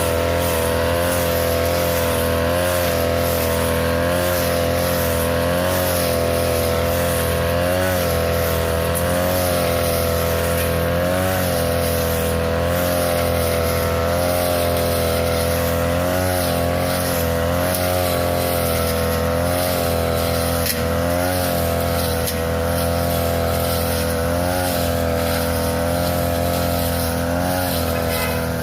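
Small petrol engine of a grass-cutting machine running steadily at high speed. Its pitch dips briefly every second or two as the blade cuts into thick, overgrown grass.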